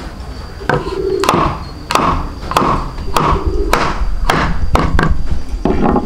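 A series of sharp knocks or taps, roughly one every half second and unevenly spaced, each with a brief ringing after it.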